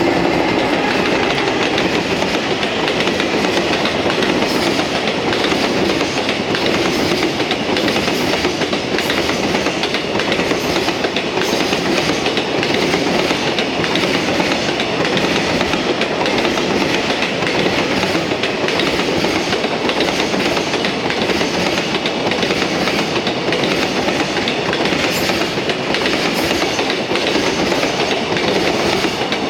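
A long freight train behind an EF210 electric locomotive passing steadily, its wagons clattering over the rail joints with a continuous rumble.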